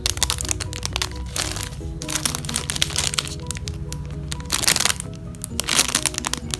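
Crinkling, crackling handling noise as squishy toys are picked up and squeezed, in three louder bursts with small clicks between them, over background music with a simple repeating melody.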